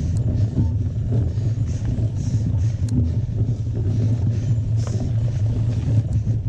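Steady low rumble of wind buffeting and trail vibration on the microphone of a camera carried on a mountain bike while riding, with short bursts of hiss and a few faint clicks.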